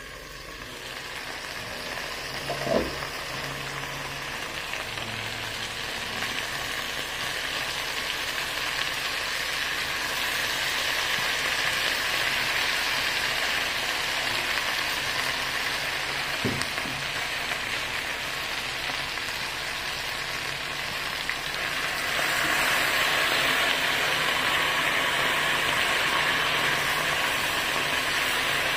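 Chicken pieces sizzling steadily in a wok, the sizzle growing louder over time and stepping up again near the end. There are two knocks against the pan, one about three seconds in and one about sixteen seconds in.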